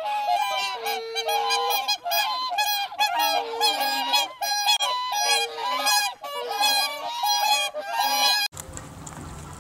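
A flock of geese honking, many calls overlapping in a dense chorus, stopping abruptly near the end.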